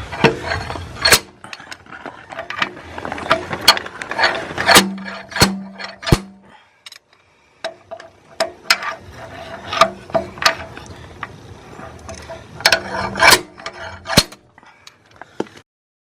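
Irregular metallic clicks and clanks of hand tools working on a car, with a faint steady hum underneath; the sound cuts off abruptly near the end.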